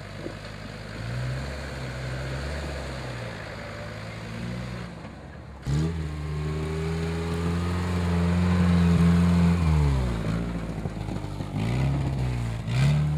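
Off-road 4x4 engines working under load on rough ground. The engine note rises and falls with the throttle and gets louder after an abrupt change about six seconds in.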